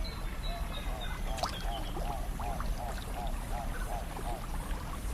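Wetland ambience: a steady wash of water with a small animal's short chirping call repeated about three times a second through the middle, and a faint high thin tone at the start.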